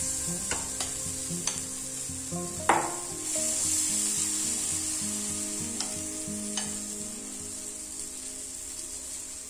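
Rava appe batter sizzling in hot oil in the wells of an appe pan as more spoonfuls are dropped in, with a few sharp clicks of the spoon against the pan, the loudest about a third of the way in.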